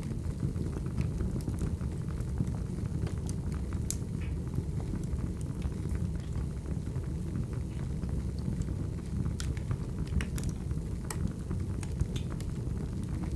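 Wood fire crackling: a steady low rumble of flames with many scattered sharp pops and snaps.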